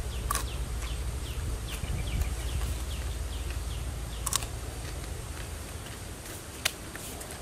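Birds chirping: a steady series of short falling chirps, a few each second, over a low steady rumble, with three sharp clicks.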